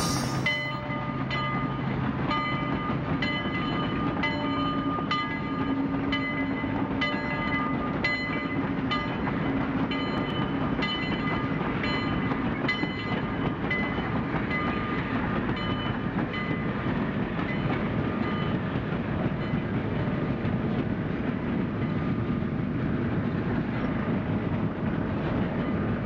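A train running on rails: a steady rumble with a regular clicking, about two clicks a second, that fades out about halfway through while the rumble carries on.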